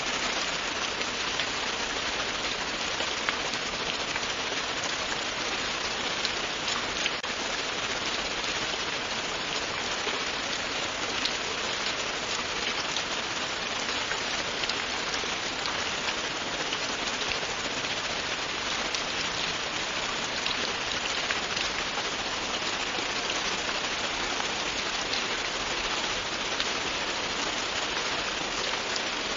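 Steady, continuous rain with a dense patter of individual drops.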